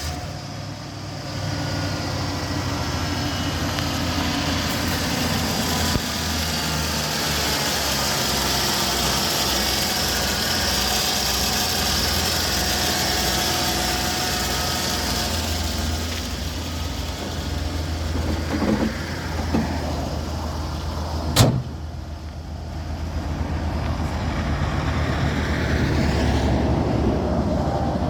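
1994 Ford F350 pickup's V8 engine running at idle just after starting. There is one sharp click about 21 seconds in, and the engine speeds up briefly near the end.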